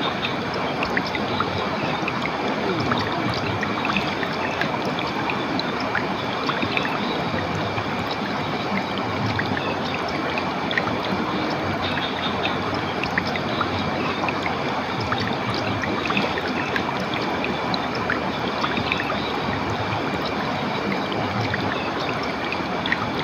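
Water of a stream or small waterfall running steadily, with faint high-pitched notes coming and going over it.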